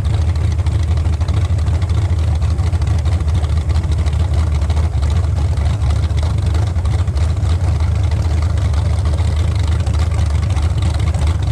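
Engine running with a steady, loud low rumble that neither rises nor falls.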